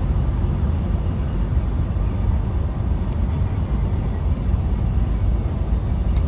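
Semi truck on the road: a steady, deep rumble of engine and road noise.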